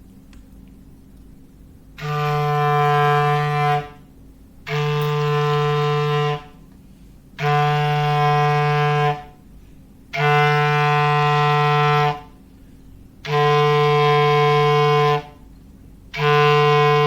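Foghorn sound effect: a low, steady horn tone sounded in blasts of about two seconds, repeating about every three seconds. The first blast comes about two seconds in and the sixth is still sounding at the end.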